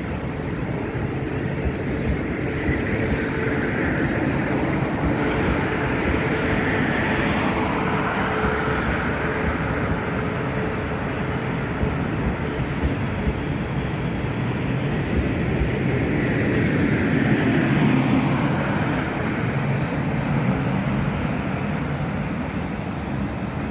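A train running past: a steady rumble and rush with a faint steady whine, loudest about eighteen seconds in.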